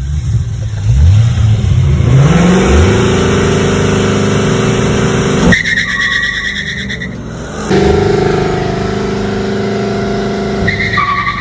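Car engine revving hard, its pitch climbing in several quick sweeps and then held high, cutting off suddenly about five seconds in. A high squeal follows, then another loud engine run starts about eight seconds in, with the squeal coming back near the end.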